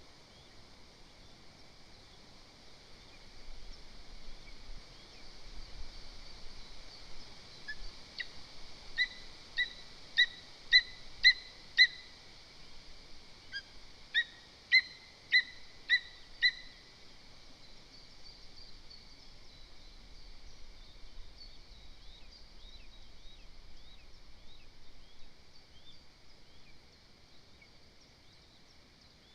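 Lesser spotted eagle calling: two series of short, sharp, high yelps, about two a second, one series of about six calls and a second of about five a couple of seconds later, over faint background birdsong.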